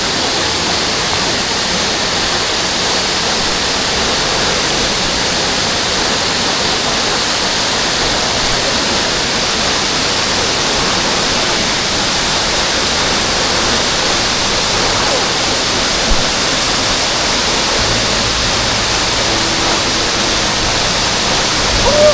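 Large waterfall heard up close: a loud, steady rush of falling water.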